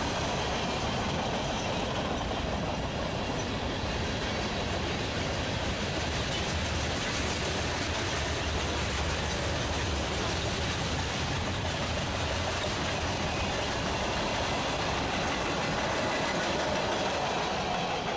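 Freight train passing, a steady noise of the cars rolling on the rails that holds level throughout.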